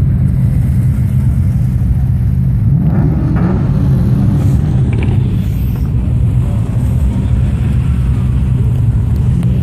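Car engines running with a steady low exhaust rumble as cars pull away at low speed.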